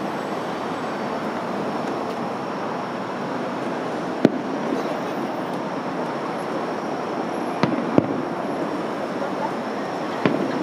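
A few sharp firework bangs, about four, heard over a steady background noise at a fireworks display.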